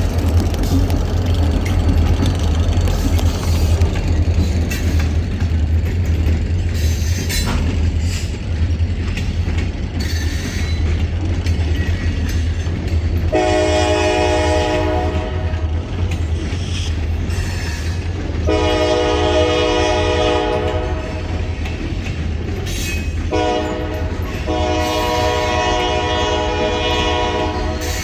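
Kiamichi Railroad EMD SD40-series diesel locomotives running with a steady low engine rumble, then sounding the air horn in the grade-crossing pattern: two long blasts, a short one and a final long one, starting about halfway through.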